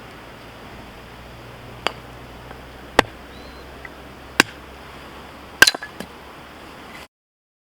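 Husqvarna hatchet striking firewood: four sharp chops spaced a second or so apart, the last followed by a few lighter knocks. The sound cuts off abruptly near the end.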